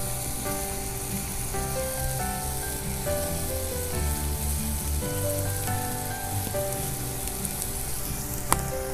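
Oil sizzling steadily as chopped onion, curry leaves and coarsely ground coriander–green chilli paste fry in a black pan, with background music playing a melodic tune. A single sharp click near the end.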